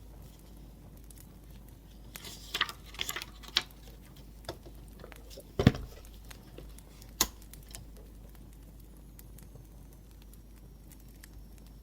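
Scattered small clicks, taps and brief rustles of handwriting and handling things at a desk, with a cluster of them about two to four seconds in and one louder knock a little after five seconds, over a faint low hum.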